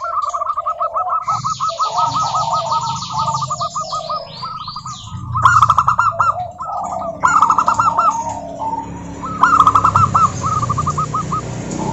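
Zebra doves (perkutut) cooing in rapid runs of short trilled notes, several birds overlapping. A higher, fast chirping from another small bird runs for about three seconds starting a second in.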